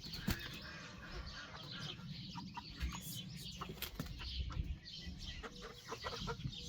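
Chickens clucking, with wing flapping and scattered clicks and rustling as the birds are handled.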